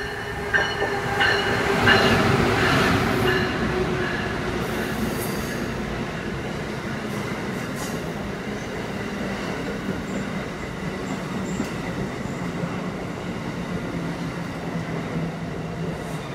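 Amtrak passenger train passing close along the platform. It is loudest about two seconds in as the head end goes by, with some high pitched tones, then settles into a steady rushing rumble of wheels and stainless-steel Amfleet-type coaches, with a low hum under it.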